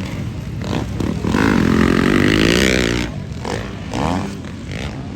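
Motocross motorcycle engine revving hard as a bike goes past, its pitch climbing and falling for about two seconds from a second in; a shorter rising rev follows near four seconds.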